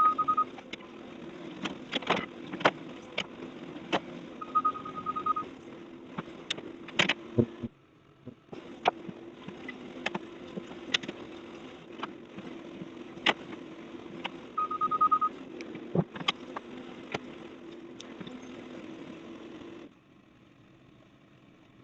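Engine of a demolition machine running steadily, with repeated knocks and clatter of debris. A short high beep sounds three times. The machine sound stops abruptly near the end, leaving faint hiss.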